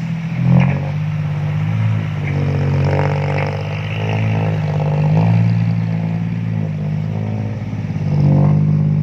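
Heavy diesel engine running and revving, its pitch rising and falling repeatedly, with a few short knocks in the first seconds.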